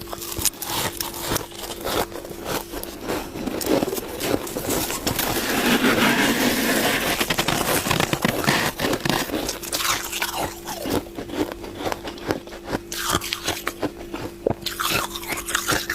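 Close-up crunching and chewing of frozen freezer frost in the mouth, a dense run of crisp crackles that gets thickest and loudest in the middle.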